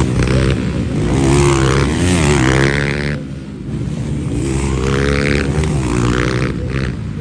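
Motocross bikes of 125 to 230 cc racing past, engines revving up and down as they shift gears. They come in two waves, with a short lull about three seconds in.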